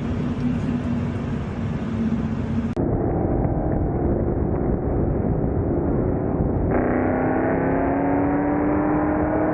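V8 sports car engine running at highway speed with road noise. The sound changes abruptly twice. In the last few seconds the engine pulls steadily higher in pitch under acceleration.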